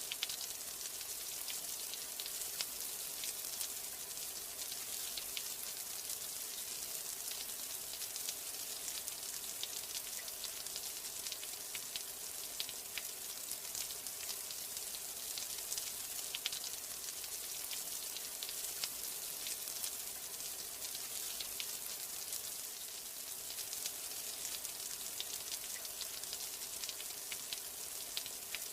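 Steady rain: an even hiss thick with many small, quick drop ticks, holding at one level throughout.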